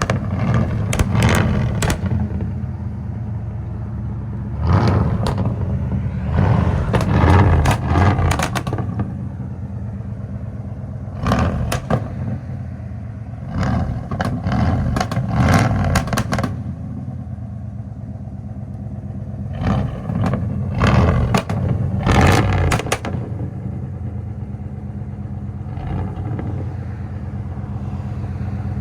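Ford F-350's 460 big-block V8 exhaust, with headers and Flowmaster Outlaw race mufflers, idling with a steady deep rumble and blipped up about six times in short revs, really loud. The engine is still a little cold.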